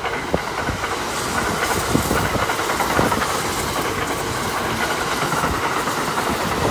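Kintetsu 21000 series Urban Liner limited-express electric train passing close by, a steady loud rush of wheels on rail with repeated clicks as the wheels cross rail joints. The sound swells just as the train arrives and stays level while the cars go by.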